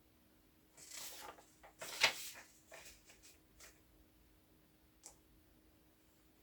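Rustling handling sounds: a few short scrapes and rustles, the loudest about two seconds in, then a faint click near the end.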